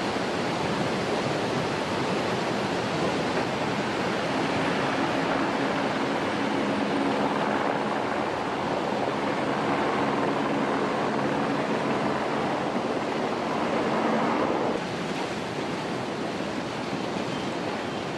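Steady rushing noise like fast-flowing water. A low steady hum joins it about four seconds in and cuts off abruptly near fifteen seconds.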